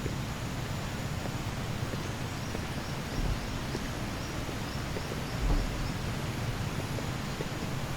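Tropical forest ambience: a steady hiss throughout, with a run of quick high bird chirps in the middle and a faint high buzz above. Two brief low bumps on the microphone, about three and five and a half seconds in.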